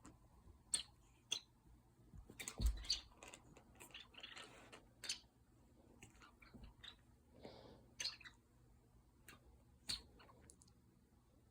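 Scattered clicks and taps with a few brief rustles and one louder knock about two and a half seconds in: a cat batting at and biting a bird toy.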